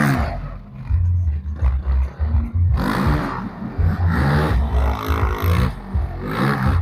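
A car engine revving, with a heavy low rumble and its pitch rising and falling several times.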